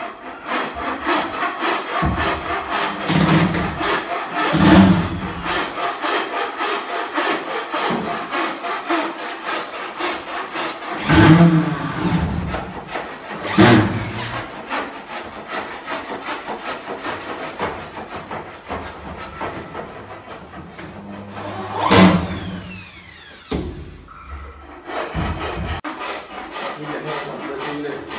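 Cordless drill driving screws into a wooden wall cabinet, a fast grainy whirring that runs on and off, with a few louder knocks against the wood.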